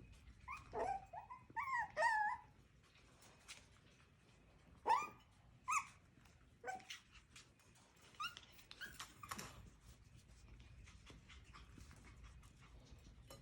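Coton de Tulear puppies giving short, high yips and whines as they play, in scattered bursts: a cluster in the first two seconds, a couple of sharp yips around five seconds in, then fainter sounds.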